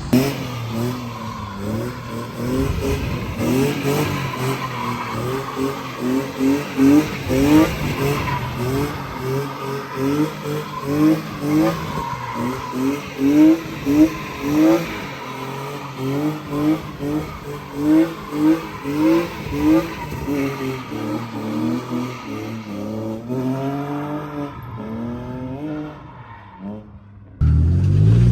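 BMW E36 M3's straight-six engine working through a drift, its revs rising and falling again and again, with tyres skidding and squealing. Near the end it cuts to a louder, steady engine note.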